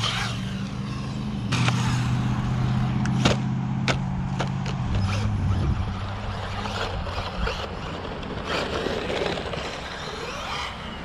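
Brushless RC car driving after a jump: its motor whine falls away at the start and climbs again near the end. Several sharp knocks come in the first four seconds, as the car lands and hits the ground. A steady low hum runs under the first half and fades out.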